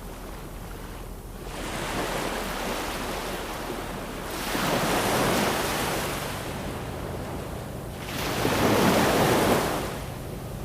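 Ocean waves breaking on a shore: three surges of surf, about two to four seconds apart, the last two loudest, with a softer wash of water between them.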